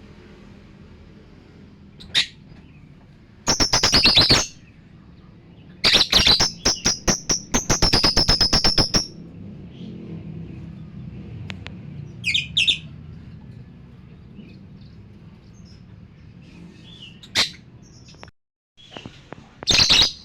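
Lovebird chattering in bursts of rapid, sharp repeated chirps. The longest burst runs about three seconds near the middle, and a few short single calls follow later.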